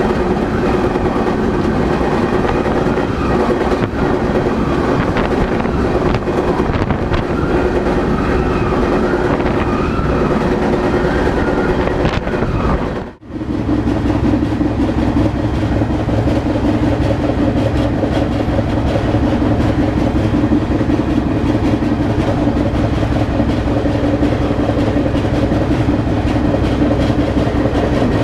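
Freight train running, a loud steady rolling rumble with a continuous hum. About halfway through the sound cuts out for a moment and comes back slightly deeper.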